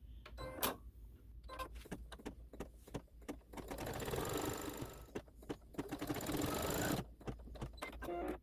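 Embroidery machine stitching a placement line: scattered clicks at first, then a steady run of rapid needle strokes from about three and a half seconds in that stops abruptly near the end, followed by a few more clicks.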